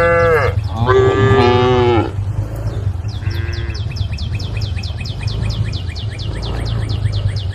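Cow mooing: two loud calls in the first two seconds, each sliding down in pitch, then a faint short call a little later. From about three seconds on a high chirping repeats about seven times a second, over a steady low rumble.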